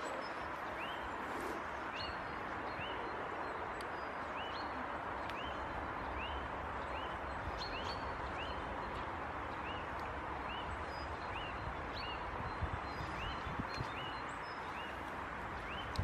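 A bird repeating a short, high, arched whistled note about twice a second, over a steady background rush. A few soft low thumps come near the end.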